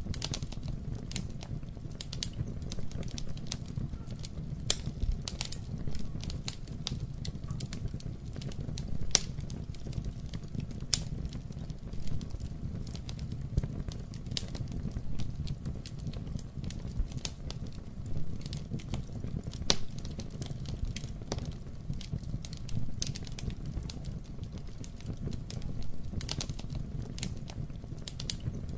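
Campfire burning: wood crackling with frequent irregular sharp pops and snaps over a low, steady rumble.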